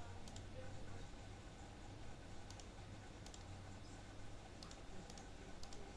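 Computer mouse clicking, about six short double clicks at irregular intervals, over a faint steady low hum.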